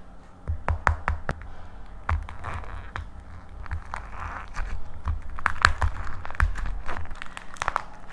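Dried plaster clay being cracked and crushed by hand: a rapid string of sharp crunchy snaps and crackles, with denser crumbling stretches in between.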